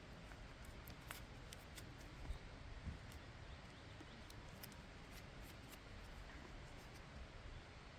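Faint wood campfire crackling, with scattered sharp little pops over a low hiss and a couple of soft knocks two to three seconds in.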